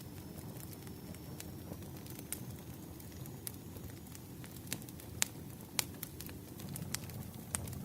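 Wood fire burning: a steady low rumble with irregular sharp crackles and pops from the burning logs, a few louder pops in the second half.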